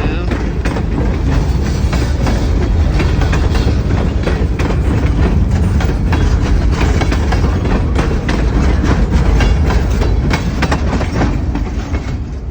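Freight train rolling past, with a steady low rumble and many sharp clicks of wheels passing over rail joints.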